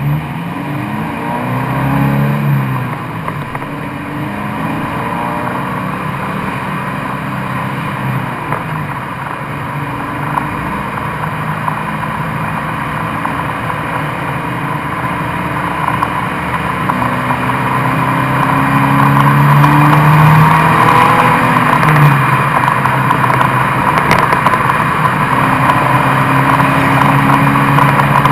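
Exhaust of a Subaru BRZ/Scion FR-S's 2.0-litre flat-four engine heard through the muffler under test, the engine pitch rising and falling repeatedly. It gets louder in the last third.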